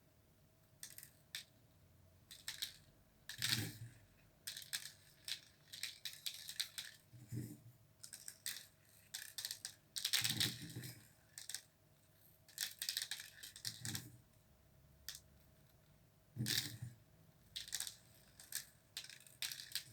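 Loose bird seed rattling and scattering on a paper-covered tray in irregular bursts, as a peanut-butter-coated cardboard toilet roll is rolled and pressed into it, with a few soft knocks along the way.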